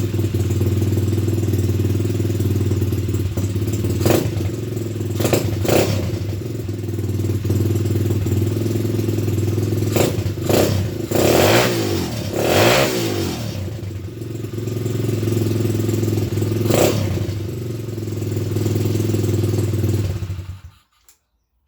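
Single-cylinder four-stroke pit bike engine idling steadily, revved up and down a couple of times around the middle, then switched off about twenty seconds in.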